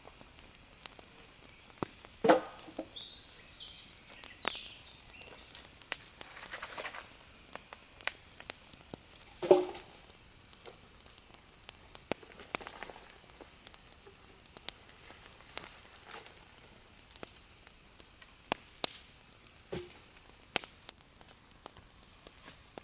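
Irregular crackles and clicks, with two louder knocks: one about two seconds in and one about halfway through.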